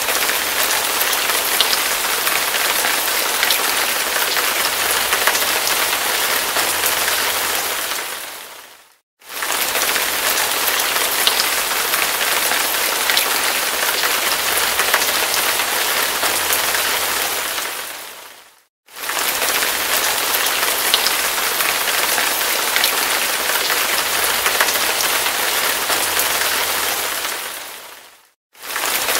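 Hard rain falling in a steady, dense hiss with scattered sharp drop ticks. It fades out to silence for a moment and comes straight back three times, about every nine and a half seconds, the seams of a looped recording.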